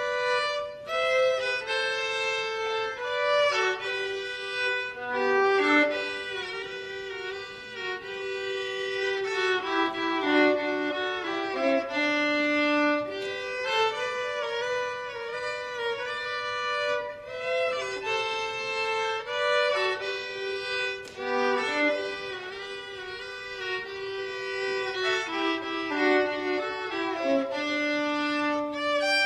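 Violin playing a slow melody of held notes that move step by step, sometimes two notes sounding together.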